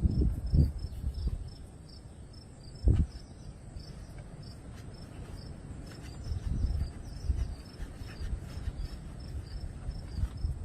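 Insects chirping in a steady, regular rhythm of short high chirps, about three a second, over a constant high-pitched hiss. Low thumps at the start and a single knock about three seconds in.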